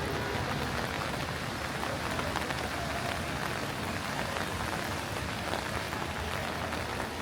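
Steady rain falling on a wet city street: an even, dense hiss of drops with no break.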